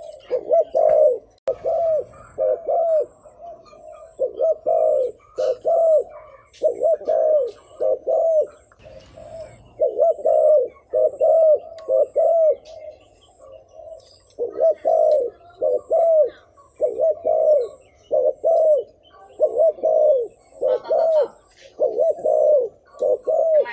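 Spotted dove cooing: short low coos repeated quickly in runs of two to four, about two a second, with brief pauses between runs. This is the 'gù' cooing of a decoy male, played to stir wild doves.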